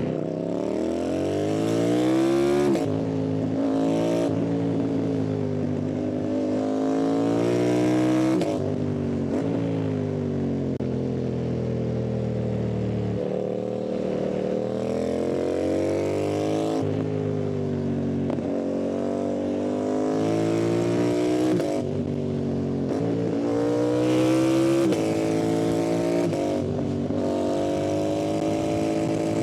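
Yamaha MT-07's parallel-twin engine accelerating hard up through the gears. Its pitch climbs in long sweeps and drops sharply at each shift, several times over.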